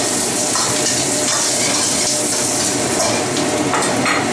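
Onion pieces sizzling steadily in hot oil in a wok, with a metal spatula stirring them at first.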